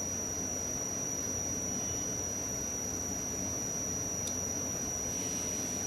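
Steady background hiss with a constant faint high-pitched whine: room tone and electrical noise of the recording, with a faint tick about four seconds in.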